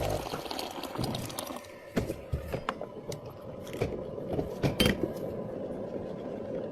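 Scattered knocks and clinks of cups and utensils being handled at a milk tea shop counter, with sharper knocks about two seconds and five seconds in. A machine motor that is running at the very start cuts off almost at once.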